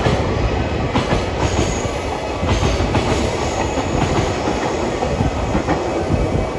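Freight train of Koki container wagons rolling past at speed, the wheels clacking over rail joints above a steady rumble.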